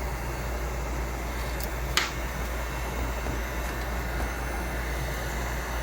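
Heat gun blowing steadily, with one sharp click about two seconds in.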